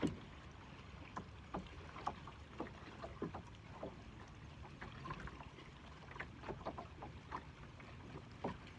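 Water lapping, with many small irregular plinks and splashes over a steady low rumble.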